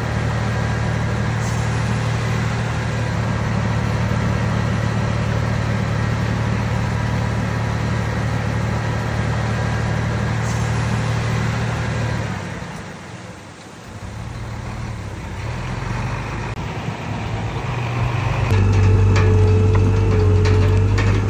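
Heavy diesel engine of earthmoving machinery running steadily with a low drone. About two-thirds of the way through it fades briefly and then comes back louder, with a whine and a quick series of metallic clicks near the end.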